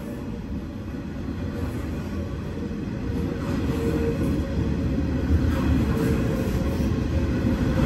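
Freight train's coal hopper wagons rolling past close by: a steady rumble of wheels on rail that grows louder over the first few seconds.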